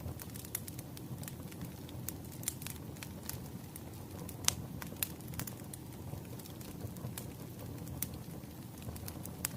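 Firewood burning: a steady low rumble of flames with irregular sharp crackles and pops, the loudest pop about halfway through.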